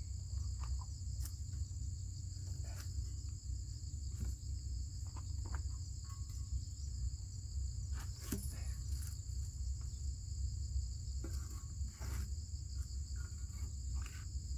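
Steady chirring of crickets in two high, unbroken bands, over a constant low rumble, with scattered short knocks and clicks.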